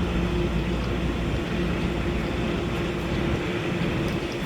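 Amtrak passenger train's diesel locomotive running steadily, a low engine hum over a rumbling noise.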